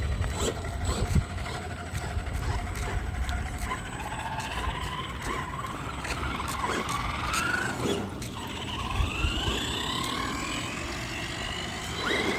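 Arrma 3S 4x4 RC truck's brushless motor and drivetrain whining, rising in pitch several times as it speeds up, over the rumble of its tyres rolling on pavement. The truck is running on a worn plastic differential that the owner doubts will hold together.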